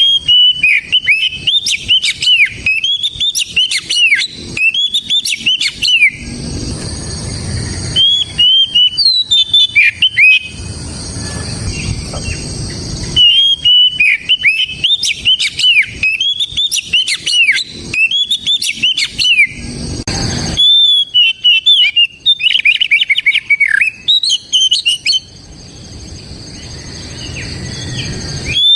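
Oriental magpie-robin singing: loud phrases of quick, rising and falling whistled notes, each a few seconds long, broken by short pauses.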